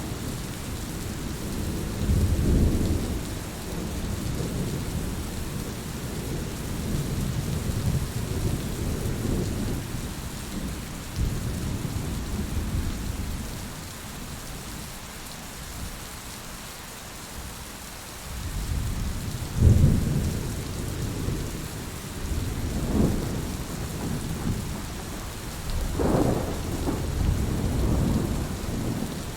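Heavy rain falling steadily, with low rolls of thunder rumbling several times; the thunder eases into a quieter lull in the middle, then returns with a few stronger rumbles in the second half.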